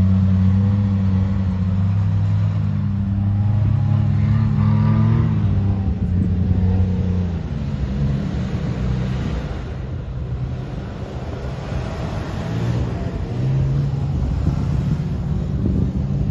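Off-road vehicle's engine revving under load on a climb, its pitch rising a few seconds in, then turning rougher and quieter about halfway through before steadying again near the end.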